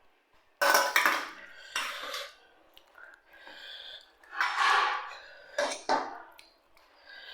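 Eating noises at a meal: cutlery clinking and scraping against a plate in about four short bursts, with quieter pauses between them.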